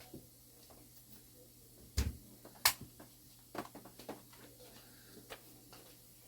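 Scattered light knocks and clicks of a clock mainspring being handled while it is wiped clean. The two loudest come about two seconds in, a moment apart, and fainter clicks follow over quiet room tone.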